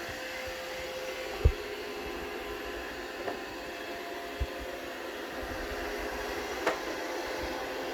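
Roomba robot vacuum's motors running with a steady hum while it keeps trying to dock. A few sharp knocks sound over it, the loudest about a second and a half in.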